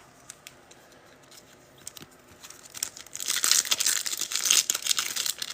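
Trading-card pack wrapper being torn open and crinkled, starting about three seconds in after a few faint clicks of card handling.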